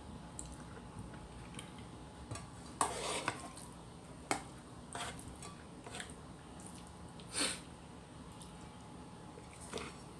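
Spoon and fork clinking and scraping against a plate or bowl during eating: a handful of light, scattered clinks.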